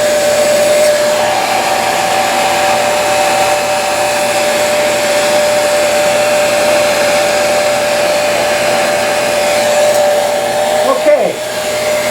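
Electric heat gun blowing steadily with a whine over its rushing air, warming a vinyl paint stencil so it conforms over rivets. About eleven seconds in, the whine briefly falls away and comes back.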